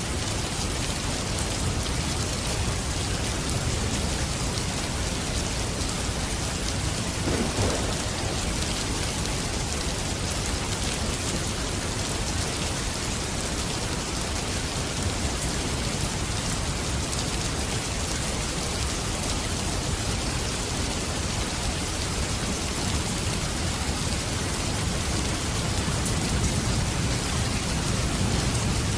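Steady rain falling. A low rumble swells near the end.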